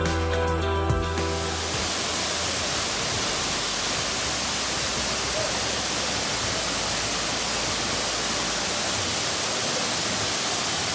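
Background music ends about a second in, giving way to the steady rushing of a waterfall.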